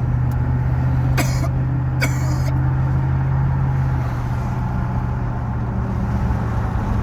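A car engine and road noise heard from inside the moving vehicle. The low engine hum is steady and shifts in pitch a little past halfway. Two short, hissy bursts come about one and two seconds in.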